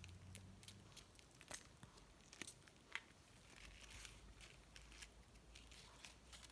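Faint, scattered clicks and light rustling from the mother cat and kittens moving about, over near silence.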